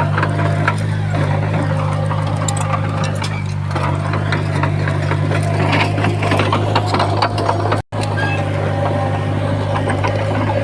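Komatsu bulldozer's diesel engine running steadily under load, with continual metallic clanking and rattling from the machine. The sound drops out briefly about eight seconds in.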